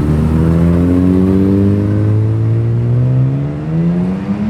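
A car engine accelerating, its note climbing steadily in pitch.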